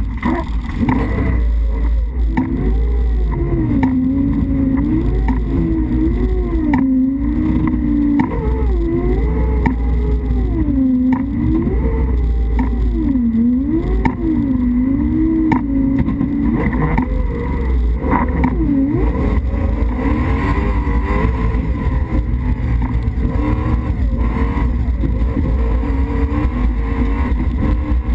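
Toyota rally-raid car heard from inside the cockpit: the engine running hard, its pitch rising and falling about once a second as it revs and shifts, over a loud steady rumble from the car at speed. About halfway through the rising and falling gives way to a steadier run.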